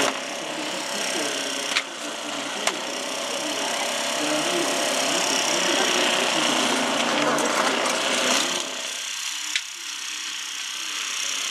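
Supermoto motorcycle engines idling in a group, their pitch rising and falling again and again as the throttles are blipped, with a few sharp clicks.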